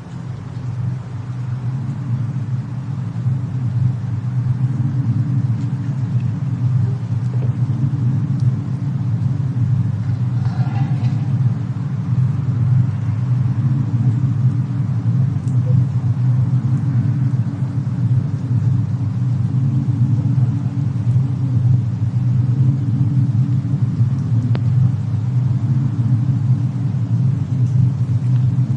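Steady low rumble of a fireplace-and-snowstorm ambience, swelling in over the first second, with a faint hiss above it and a few faint pops.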